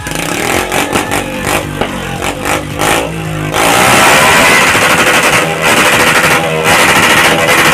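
A long, rapid string of firecrackers crackling loudly, starting about halfway through and keeping on. Before it, a revving, engine-like sound with music.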